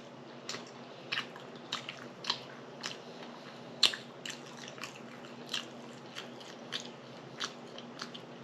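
A person chewing and biting into crunchy food close to the microphone: about a dozen short, crisp crunches and mouth clicks at an uneven pace.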